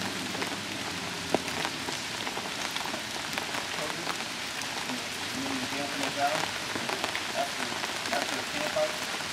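Steady rain falling, with many separate drops tapping on nylon tent and canopy fabric.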